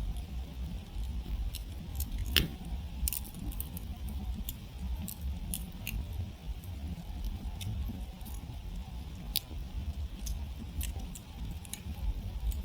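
Wood campfire crackling and popping, with irregular sharp pops, the loudest about two and a half seconds in, over a low steady rumble.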